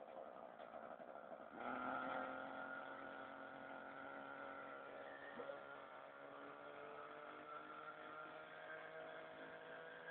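Radio-controlled helicopter's motor and rotor running with a steady whine. It comes in abruptly a little over a second in, and its pitch then climbs slowly.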